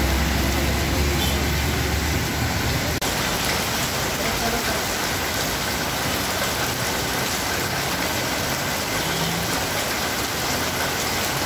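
Heavy rain falling on a wet street, a steady even hiss. A bus engine rumbles low in the first couple of seconds and fades out.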